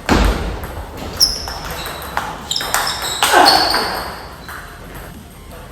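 Table tennis rally sounds: a loud hit at the start that fades away, then several sharp knocks of the ball on paddle and table, some with a short high ring.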